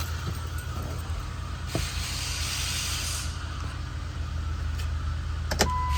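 2010 Chrysler Town & Country's 3.8-litre V6 idling steadily. A hiss comes in for about a second and a half about two seconds in. Near the end there is a click, then a steady beep begins.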